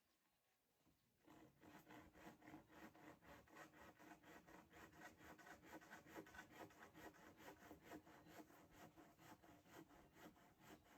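Rapid, rhythmic scraping strokes, about five a second, starting about a second in and running on steadily.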